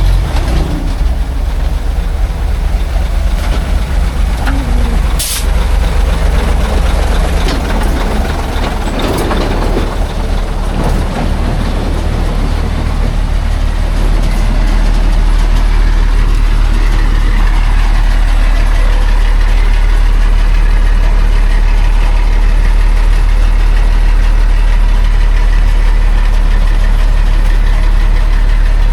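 Heavy logging truck's engine running with a loud, deep drone, busier and uneven for the first half and settling into a steadier, louder drone about halfway through. A single short, sharp sound about five seconds in.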